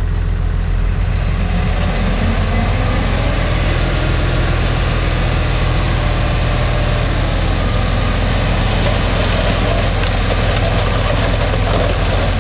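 Heavy diesel earthmoving machinery running steadily, a deep engine hum with added mechanical rumble from about two seconds in.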